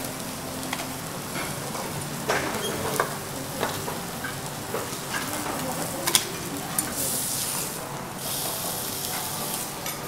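Duck foie gras sizzling and frying in its own rendered fat on a steel teppanyaki griddle, with sharp clicks and scrapes of a metal spatula on the steel. The hissing grows louder in the second half.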